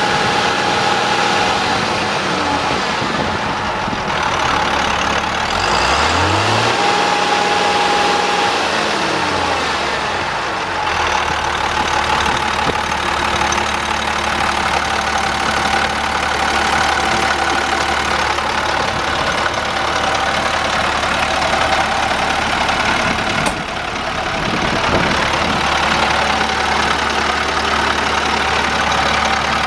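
2002 International 4900 dump truck's DT466 inline-six diesel engine running; its pitch rises about six seconds in and falls back a few seconds later, then it runs steadily at a low, even drone. A single sharp click comes about two-thirds of the way through.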